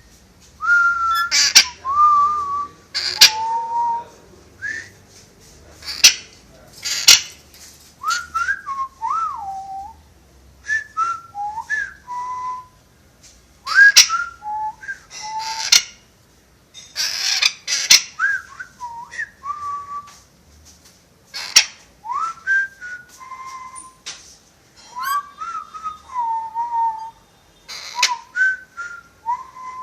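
Pet parrot whistling: a string of short whistled notes that slide up and down, pausing between phrases, with sharp brief clicks or squawks among them.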